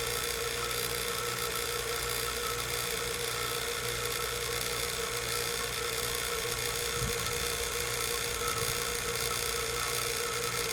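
HVAC vacuum pump running with a steady hum, evacuating a heat pump's refrigerant circuit down toward a deep vacuum after a compressor replacement.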